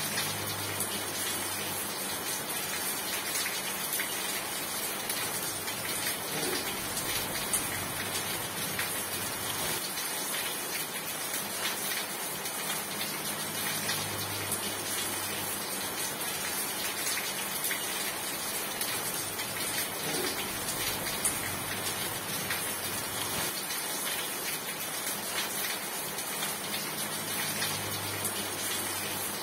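Steady rain: a dense, even hiss with many small drop ticks. A faint low hum comes and goes about every thirteen seconds.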